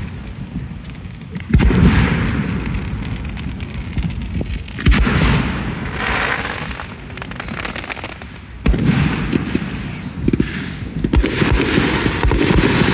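Fireworks display: three big aerial shells go off with sharp booms, about a second and a half in, about five seconds in and near nine seconds in, each followed by a rolling echo and crackling.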